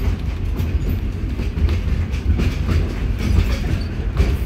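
Ride noise aboard a moving railroad caboose: a steady low rumble with irregular clacking and rattling of the wheels over the track.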